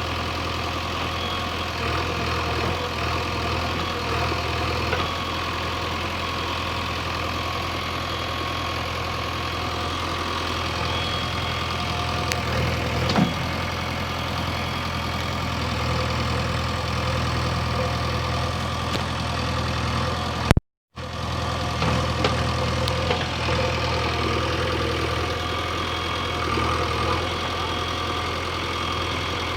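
Backhoe loader's diesel engine running steadily at a low, even speed. The sound cuts out completely for a moment about two-thirds of the way through.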